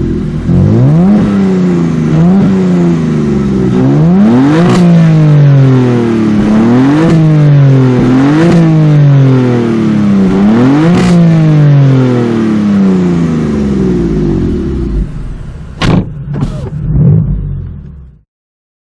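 BMW M4's twin-turbo straight-six, breathing through an Akrapovic Evolution Line exhaust, being revved about six times, each blip climbing quickly and falling back slowly, then settling to a steady idle. Two sharp clicks come near the end.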